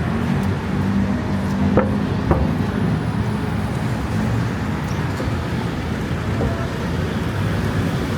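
Road traffic: a steady engine rumble of passing vehicles, with two short clicks about two seconds in.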